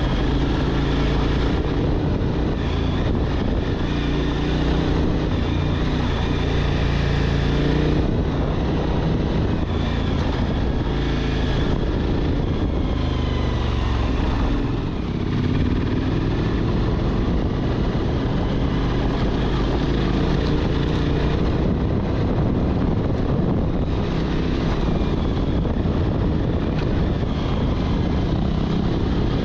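Suzuki V-Strom 1000's V-twin engine running under way, with a short drop in revs about halfway through before it picks up again.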